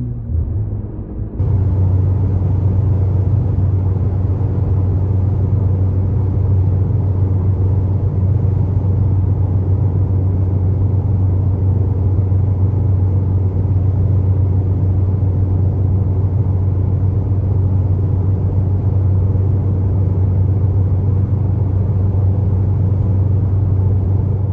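Ford Focus ST with an AWE Track catback exhaust droning at a steady cruising speed, heard from inside the cabin: a steady low hum that holds one pitch without rising or falling.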